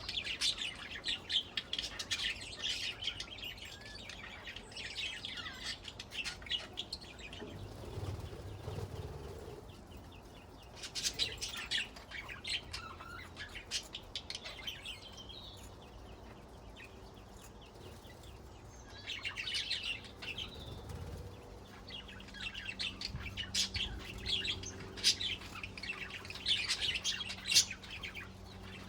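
Pet budgerigars chirping and warbling in bouts of busy, rapid twittering, with a short quieter lull about halfway through.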